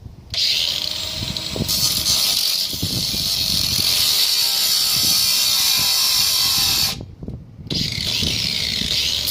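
Cordless angle grinder grinding or cutting metal with a steady high-pitched whine. It stops suddenly about seven seconds in, then starts again less than a second later, spinning back up.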